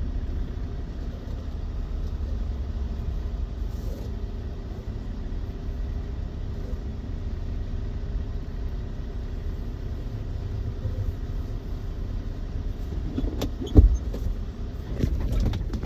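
Small manual-transmission truck's engine running at low speed, heard from inside the cab as a steady low rumble. A single sharp thump about fourteen seconds in.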